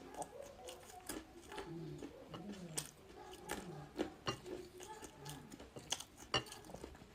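Close-up eating sounds: chewing, with a scattering of sharp crunches and mouth clicks. Faint voices murmur in the background.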